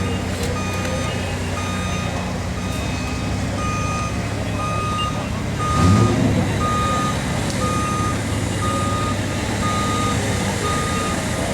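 A vehicle reversing alarm beeps steadily, about one beep every 0.7 seconds, over the rumble of an off-road 4WD engine. About six seconds in, the engine briefly revs louder.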